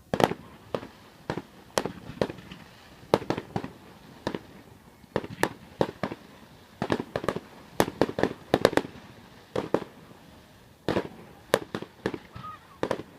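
Fireworks going off: a rapid, irregular series of sharp bangs, often several in quick succession, with brief gaps between clusters.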